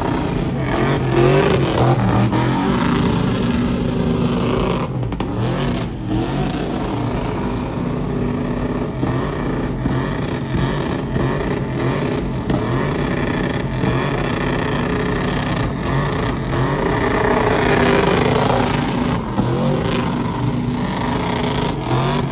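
Motor vehicle engines running steadily, with a few rises and falls in engine pitch as they are revved.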